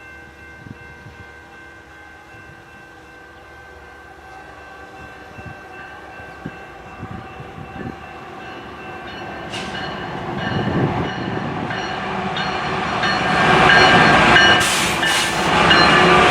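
A train approaching and growing steadily louder, with a rush of wheel and rail noise loudest over the last few seconds. Steady tones are held underneath throughout.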